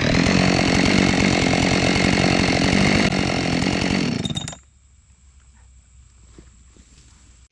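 Chainsaw at full throttle cutting through a log, having just revved up. It stops abruptly about four and a half seconds in, leaving only a faint background.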